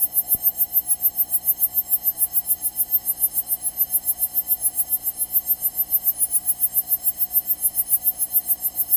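A steady electronic buzz pulsing evenly, about seven pulses a second.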